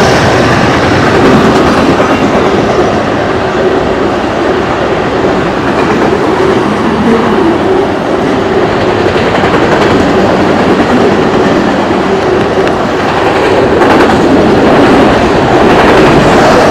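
Fast CSX freight train of autorack cars passing close by, with two trailing locomotives going past at the start: loud, steady noise of steel wheels on the rails and the cars going by.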